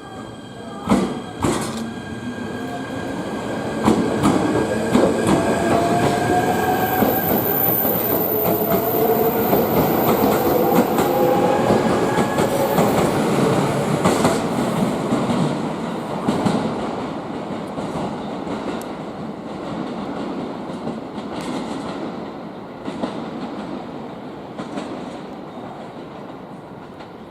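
A train moving through the station: its wheels clack over rail joints, and a rising whine climbs in pitch for several seconds. The sound builds to its loudest in the middle and then fades away.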